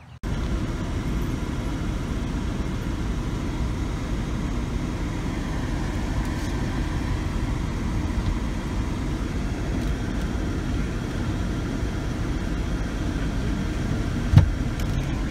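Steady low rumble of a car's engine and road noise heard from inside the cabin, with one short knock near the end.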